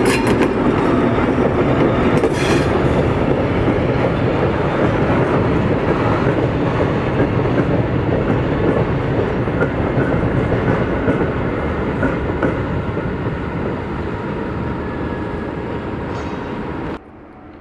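Train running past close by, its wheels clattering over the rail joints, the noise slowly fading; it cuts off suddenly near the end.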